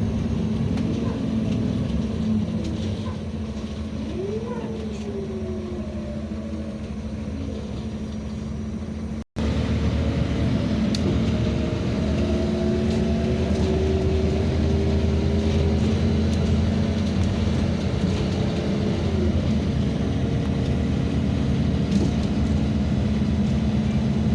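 NEST city bus on the move, heard from inside the cabin: a steady engine drone with a whine that rises and falls in pitch as the bus speeds up and slows. The sound breaks off for a moment about nine seconds in.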